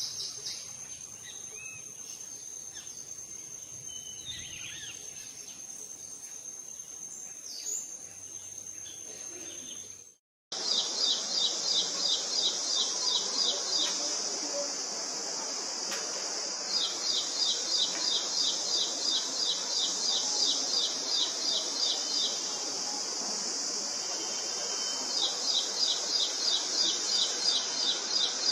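Bird chirps over a steady high insect drone; after a break about ten seconds in, a bird repeats a rapid string of high notes, about four or five a second, in three runs of a few seconds each, over a loud, steady insect chorus.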